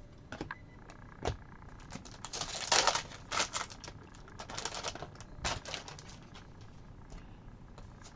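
Trading cards being handled and flipped through one by one: irregular sharp clicks and short swishes of card stock sliding against card stock, busiest around the third and fifth seconds.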